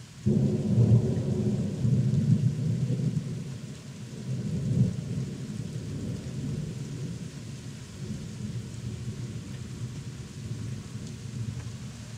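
Thunder from a thunderstorm: a deep rumble that begins suddenly, swells again about five seconds in, then rolls on and slowly fades.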